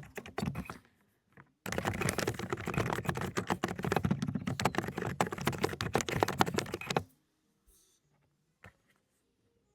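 Fast typing on a Dokgeomi mechanical keyboard with low-noise 'cotton candy' switches. A short burst of keystrokes and a pause of about a second are followed by a rapid run of keystrokes that stops about seven seconds in. After that it is nearly quiet, with one faint click.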